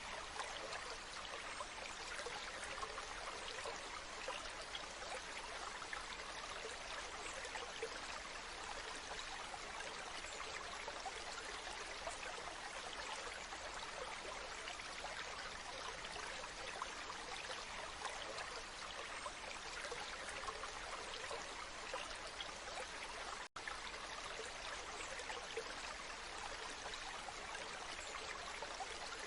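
Waterfall: a steady, even rush of falling water, broken by a momentary dropout about two-thirds of the way through.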